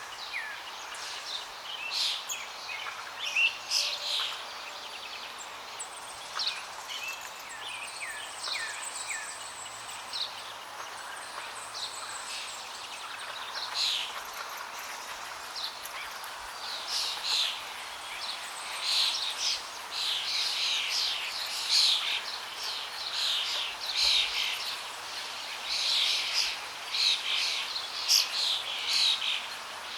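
Birds chirping over a steady rush of flowing water. The chirps are sparse at first and grow much busier about halfway through.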